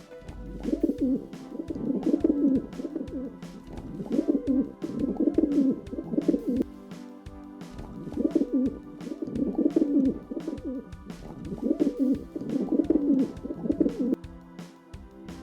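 Pigeon cooing in repeated low, rolling phrases of about a second each, over background music with a steady ticking beat.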